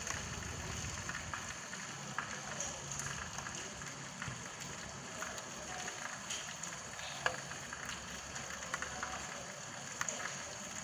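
Steady rain falling, with scattered sharp drop taps and a few louder single drips over the hiss.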